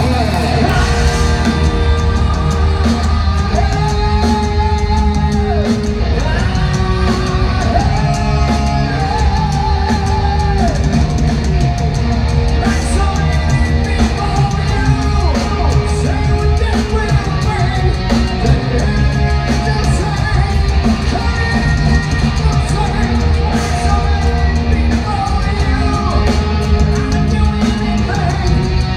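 Heavy metal band playing live in a concert hall: distorted guitars, bass and a pounding drum kit, with a singer holding long, wavering sung notes over them.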